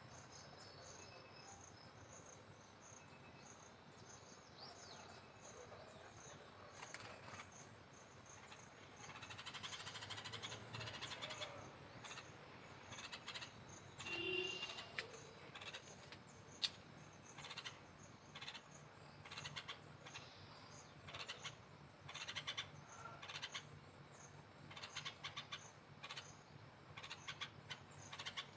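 Faint bird chirps in short scattered bursts, more frequent in the second half, over a steady, even, high-pitched pulsing.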